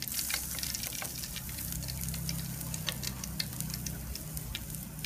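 Fish meatball paste frying in hot oil in a steel wok: a steady sizzle with scattered small pops and crackles from the oil.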